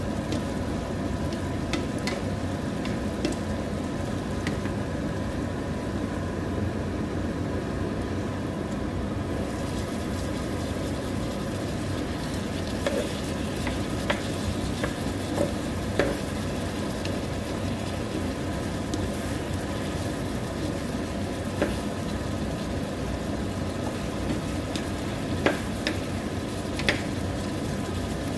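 Chicken afritada with potatoes and carrots sizzling steadily in a frying pan, with a spatula scraping and knocking against the pan now and then, several sharp knocks in the second half.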